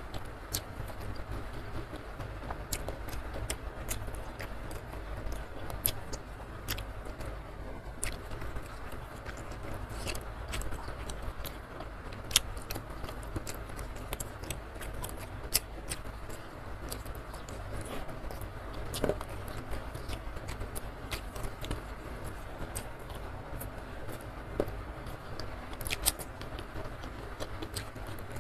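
Close-miked chewing and lip smacking, with many sharp mouth clicks and occasional crunches, over a steady low background rumble.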